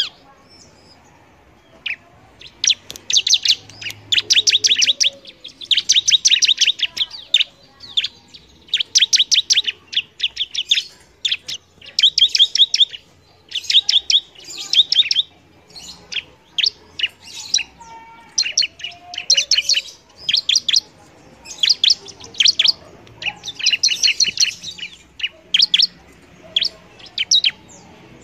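Bar-winged prinia (ciblek) singing vigorously: high, rapid chattering phrases of quick repeated notes, each about a second long, coming one after another with short pauses.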